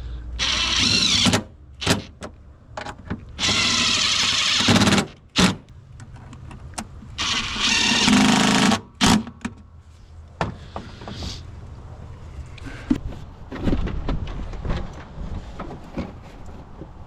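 Power drill/driver running three times in short bursts of about a second each, with clicks and clanks of metal parts and tools between them, as bolts are driven back in while reassembling the engine parts.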